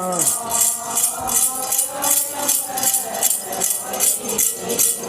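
Metal jingles shaken in a steady rhythm of about two shakes a second, keeping time for a Ponung dance, with faint voices beneath. A sung "yo" slides down and dies away just after the start.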